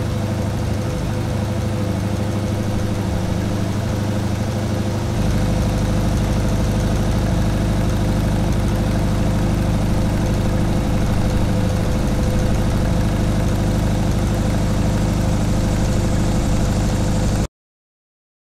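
Car engine idling steadily, growing a little fuller and lower about five seconds in, then cutting off abruptly about a second before the end.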